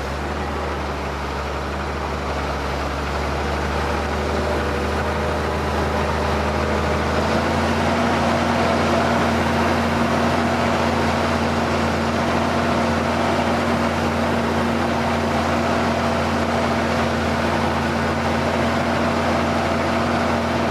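Ford TW tractor's six-cylinder diesel engine running steadily under load while pulling a plough, its note shifting slightly about seven seconds in.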